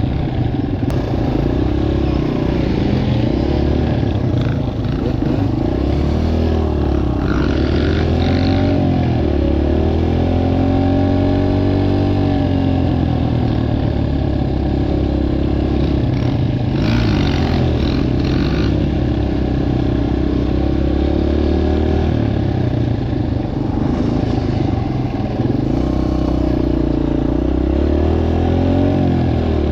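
Dirt bike engines running and revving, their pitch rising and falling over and over as the bikes are ridden. The pitch lines cross one another, so more than one engine is heard. Brief noisy bursts come about 7 and 17 seconds in.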